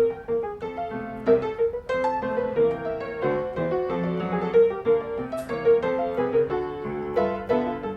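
Background piano music: a gentle melody of clear single notes moving at an even pace, with accompanying chords.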